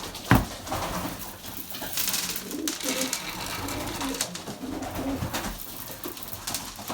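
Racing pigeons cooing in a loft, short low coos scattered throughout. A knock near the start and a stretch of rattling from about two seconds in, as feed grain is poured into a feeding tray.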